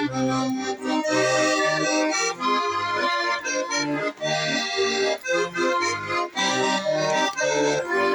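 Accordion playing an instrumental interlude of a Russian song: a melody in the right hand over a steady alternating pattern of bass notes and chords.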